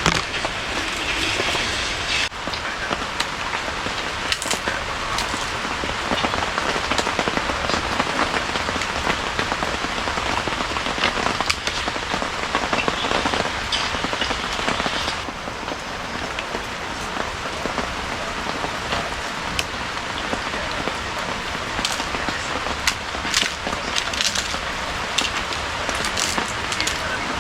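Heavy rain falling steadily, a dense hiss with scattered sharp taps of drops landing close by; it gets a little softer about halfway through.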